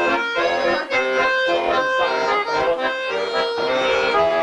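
Accordion playing the instrumental introduction to a song, a melody of changing notes over held chords.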